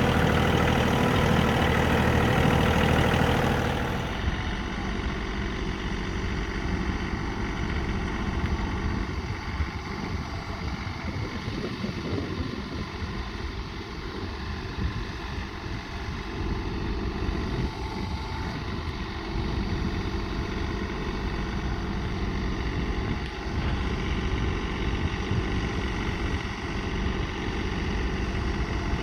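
Diesel engine of a John Deere 3043D compact tractor running steadily; it drops noticeably in level about four seconds in and carries on evenly.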